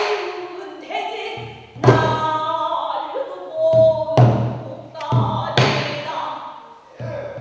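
A pansori singer's voice in long, bending sung phrases, punctuated by several deep strokes on a buk barrel drum.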